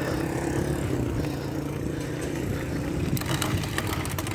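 A small motorcycle engine running steadily, from a motorcycle-sidecar tricycle close by. Near the end a quick run of sharp clicks sounds over it.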